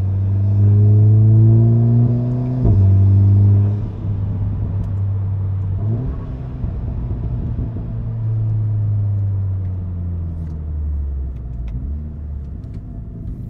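VW Golf R's turbocharged 2.0-litre four-cylinder heard from inside the cabin under acceleration: the engine note rises, drops sharply at an upshift about two and a half seconds in, and climbs again. The throttle eases off about four seconds in, and the engine settles with a few faint crackles from the tune's exhaust pops, then winds down slowly near the end as the car slows.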